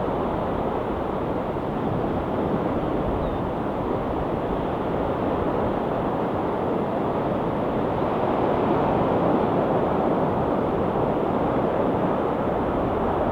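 Ocean waves washing on the shore: a steady rush of surf that swells a little about eight seconds in.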